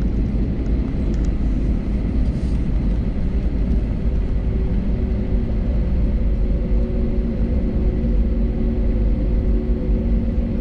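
Cabin noise of an Airbus A320neo taxiing after landing: a steady low rumble from the idling Pratt & Whitney geared turbofans and the rolling airframe, with a few steady hum tones over it.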